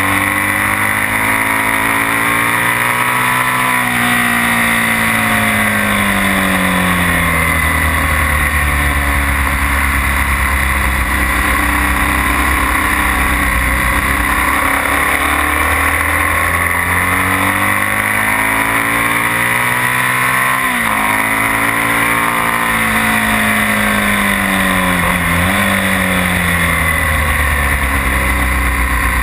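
BMW R1200S's boxer twin engine heard from onboard at track speed, its pitch climbing and falling several times as the bike accelerates and slows for corners, with a sharp break about three-quarters through. Loud wind rush runs under it.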